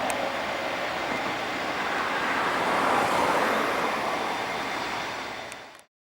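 Jet engine noise from an Airbus A320-232's IAE V2500 turbofans: a steady rushing roar that swells to its loudest about halfway through, then eases and cuts off abruptly near the end.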